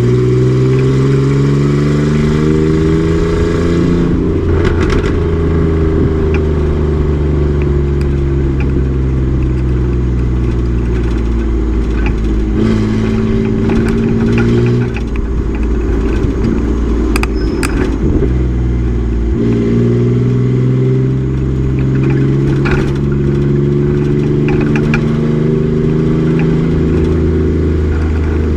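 Race truck's engine running hard on track, revs climbing and dropping with gear changes: a shift about four seconds in, a lull around the middle, then the revs build again toward the end.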